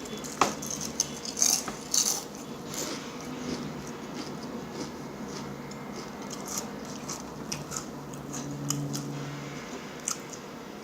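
Close-up eating sounds: chewing with irregular sharp clicks and crackles, thickest in the first few seconds.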